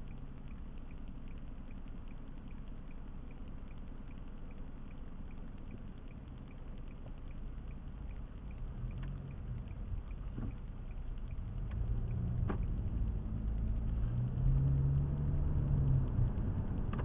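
A car driving, heard from inside the cabin: a low road and engine rumble that grows louder in the second half, with a faint regular ticking throughout.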